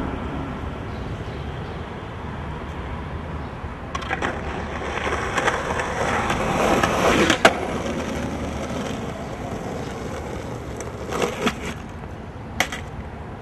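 A rolling noise that swells to a sharp knock about seven seconds in and then fades, with a few more clacks near the end.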